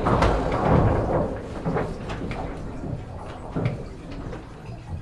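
Knocks and clatter aboard a racing sailboat over a rushing noise that fades after the first couple of seconds.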